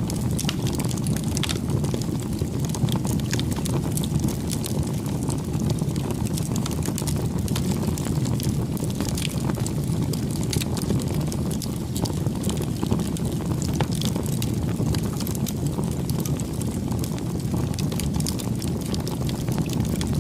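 Campfire burning: a steady low rushing sound with frequent small crackles and pops from the burning wood.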